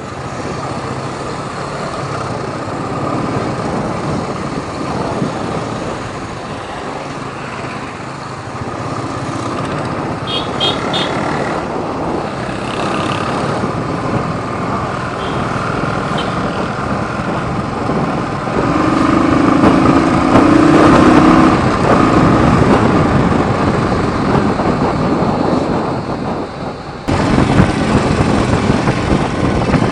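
Motorcycle riding in traffic: a steady rush of wind and road noise with engine sound and passing vehicles. Short horn toots come about ten seconds in, and a louder, longer horn around twenty seconds in. The sound changes abruptly near the end.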